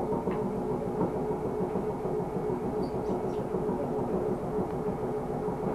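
Fukui Railway Fukubu Line train running between stations, heard from inside the car: a steady rumble of wheels on rail with a steady hum.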